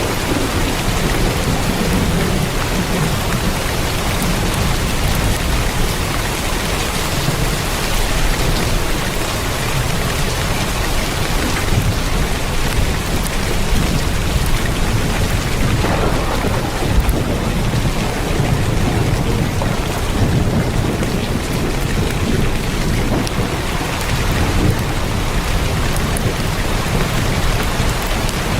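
Heavy rain drumming steadily on a tin roof, a dense unbroken hiss, with a low rumble underneath that swells and fades.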